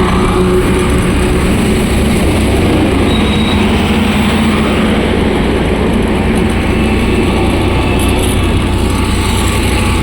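Honda SP 125's single-cylinder engine running steadily at an even, unchanging pitch.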